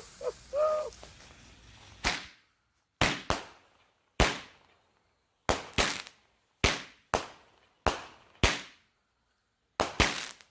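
A 200-gram 7-shot consumer fireworks cake firing: about a dozen sharp bangs at uneven intervals, some in quick pairs, each cutting off fast, as its shots launch and burst.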